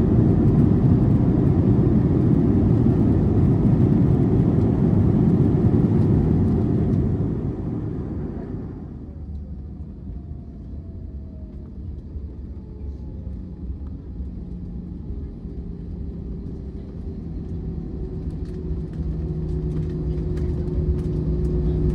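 Airbus A321 airliner heard from the cabin on its landing rollout: a loud roar of the engines and deceleration that dies down after about seven seconds, then a quieter engine hum with a steady tone as the plane slows.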